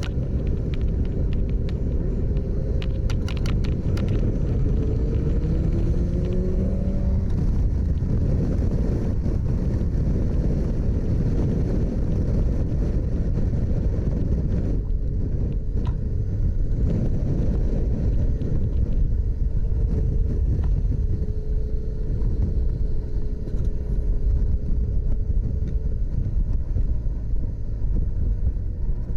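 Motorcycle on the move: a steady low rumble of wind and road noise on the microphone, with a faint engine note that rises briefly a few seconds in.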